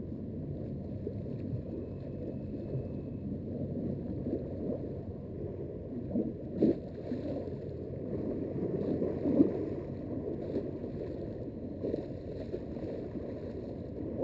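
Steady low rushing outdoor noise of wind and water, with a sharp knock a little past halfway.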